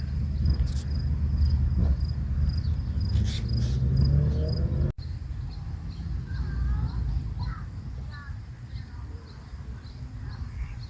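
Evening shoreline ambience: crickets chirping in a steady, pulsing high tone over a low rumble. The rumble drops about five seconds in, and faint gull calls come through after it.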